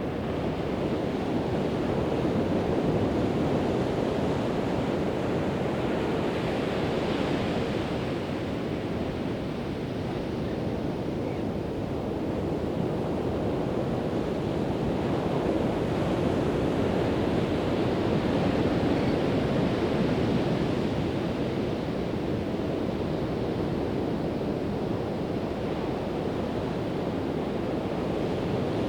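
Pacific Ocean surf breaking and washing ashore in a steady rush, swelling and easing slowly as sets of waves come in, with some wind on the microphone.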